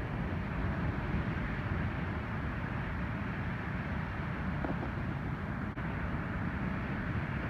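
Steady, low rush of ocean surf from an incoming typhoon swell, with no single wave crash standing out.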